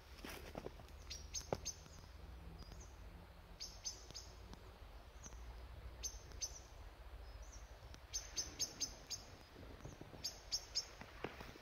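Small songbirds chirping: short, high, down-slurred chirps in little clusters every couple of seconds, over a faint low rumble.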